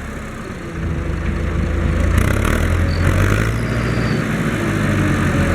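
Fendt Farmer 106 S tractor's four-cylinder diesel engine running, picking up and growing louder about a second in. A faint high whistle sounds briefly about three seconds in.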